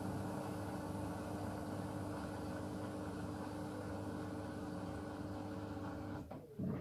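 Miele W1 washing machine running with a steady motor hum and a constant whine, which stops abruptly about six seconds in, followed by a brief low knock.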